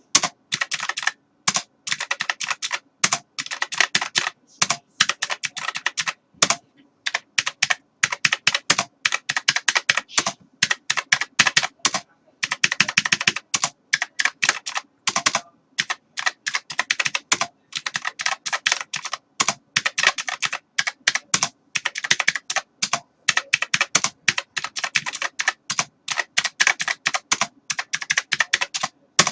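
Computer keyboard being typed on: quick runs of clicking keystrokes with short pauses between the bursts.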